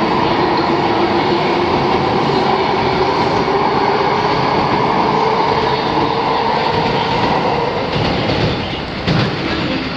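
E259 series Narita Express electric train accelerating out of a station, its cars rolling close past with continuous wheel-and-rail noise and a steady hum. The sound thins and drops a little near the end as the tail car pulls away.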